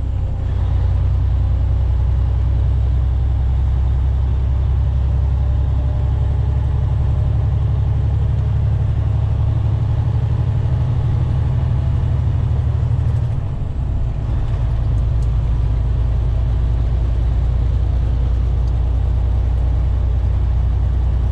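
Steady low drone of a semi truck's engine and road noise heard from inside the cab while driving, dipping briefly about two-thirds of the way through.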